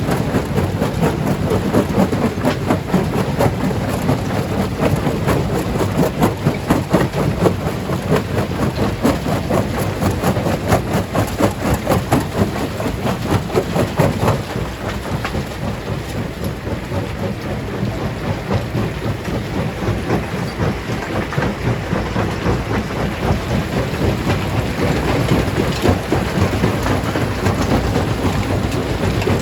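Stone crusher breaking rocks: a dense, continuous clatter and cracking of stone over a heavy rumble, thinning out somewhat about halfway through.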